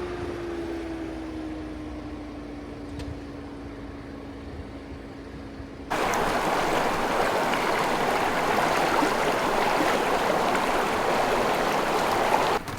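A vehicle engine running with a steady drone that slowly falls in pitch. About six seconds in there is an abrupt cut to the louder, steady rush of a stream, which cuts off again near the end.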